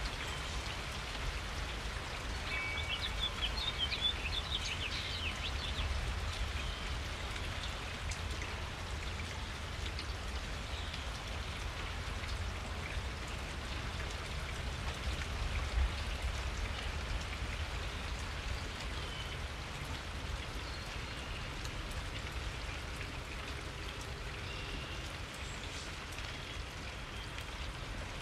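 Steady rain falling, with small birds chirping several times in the first few seconds and faintly again near the end.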